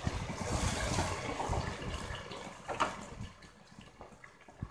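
Fried onions and ginger-garlic paste sizzling in oil in a pot, with a little water just added, while a spoon stirs through them. There is a single sharp knock near three seconds in, and the sizzle fades soon after.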